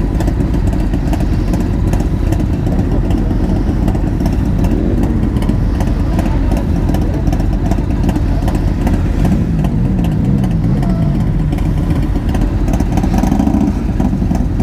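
Motorcycle engines running steadily, with short revs rising and falling in pitch about two-thirds of the way through and again near the end.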